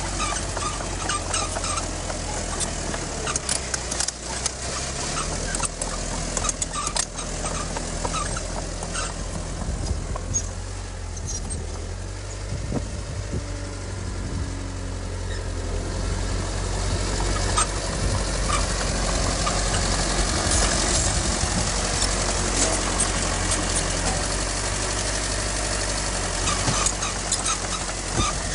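Heavy diesel earthmoving machine running: a steady low engine drone with scattered sharp metallic clanks and knocks, growing louder in the second half.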